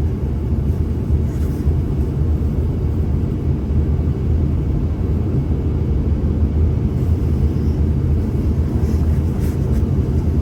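Steady low rumble inside the cabin of a CRJ900 regional jet in flight, from its two rear-mounted turbofan engines and the airflow, on approach to landing.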